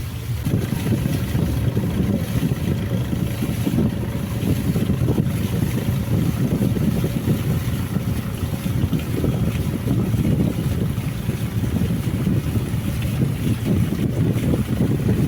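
Boat under way on the river, its engine and water giving a loud, rough low rumble, with wind buffeting the microphone.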